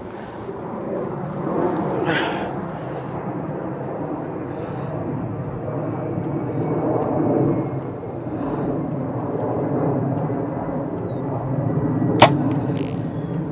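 Steady wind rumbling on the microphone, with one sharp snap of a PSE Drive 3B compound bow being shot near the end.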